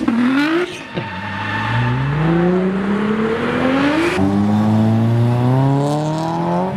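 A car engine accelerating, its pitch climbing steadily for several seconds after a brief dip near the start.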